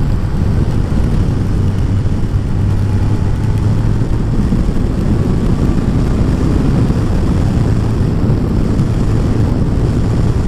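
Kawasaki ZZR1400's inline-four engine running at a steady cruise, a constant low drone under steady wind and road noise.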